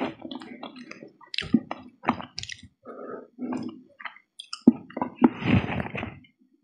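Close-miked chewing of momo dumplings: wet squishing, lip smacks and irregular mouth clicks, with a longer wet, noisy stretch about five seconds in.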